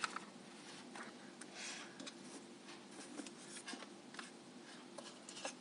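Faint handling noise: scattered small clicks and rustles over a low steady hum.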